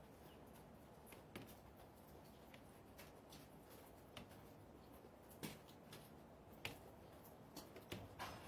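Near silence, with a few faint, irregular clicks and ticks.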